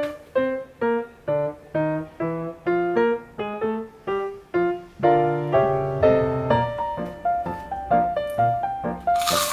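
Background piano music: a light melody of separate, quickly fading notes, about two a second. Near the end a short, sharp noisy burst cuts in over it.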